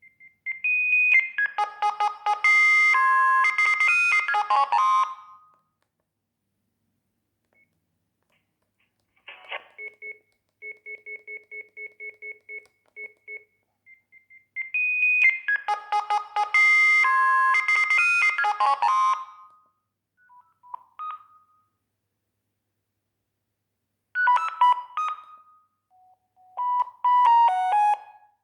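Sagem myX-1 Twin mobile phone playing a string of short electronic ringtone melodies through its small speaker, with pauses between them. One of them is a quick run of evenly spaced repeated beeps.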